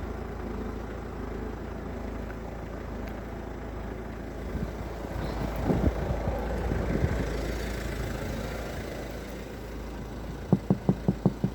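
Vehicle engine idling steadily, with a louder rise and fall around the middle. Near the end, a quick run of taps, about six a second.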